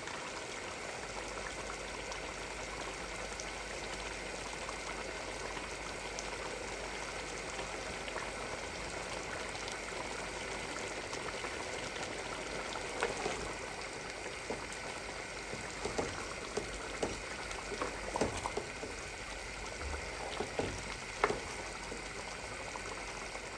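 Steady sizzling hiss, with scattered sharp pops and clicks through the second half.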